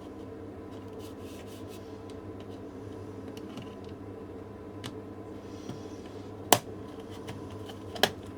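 Plastic clicks from the clips of an LED camping light's casing being prised apart: a few faint ticks, a sharp loud snap about six and a half seconds in, and two more clicks near the end, over a steady low hum.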